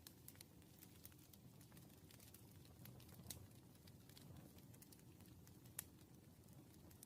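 Faint desk sounds while studying: scattered small clicks and taps, a few sharper ones about three and six seconds in, over a low steady room hum.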